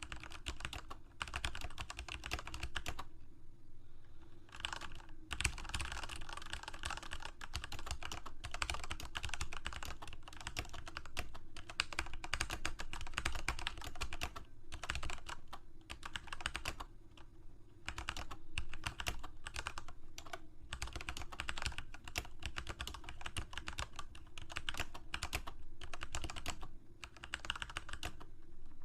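Typing on a computer keyboard: rapid runs of key clicks broken by short pauses, the longest a little after three seconds in.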